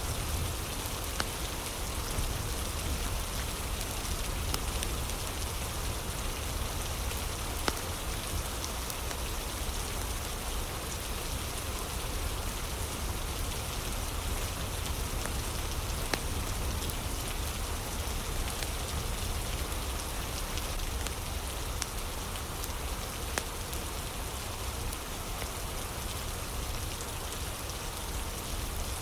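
Steady rain falling, a dense even hiss with a low rumble, and a few sharp pops from a crackling fire.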